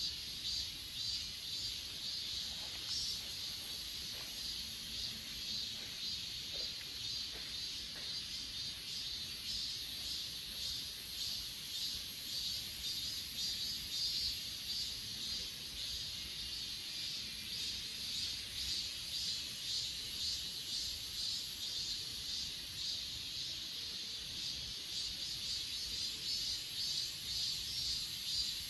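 A chorus of grass insects, crickets and the like, keeping up dense, rapidly pulsing high-pitched trills without a break.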